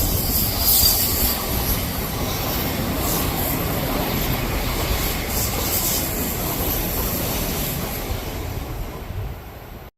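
An Odakyu Line electric train running past on the rails, with a high-pitched wheel squeal over the rolling noise. It grows louder at the start and cuts off suddenly near the end.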